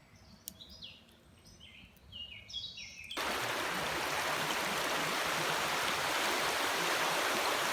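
A bird sings a run of short, falling chirping notes over quiet surroundings; about three seconds in the sound cuts abruptly to the loud, steady rush of a river flowing.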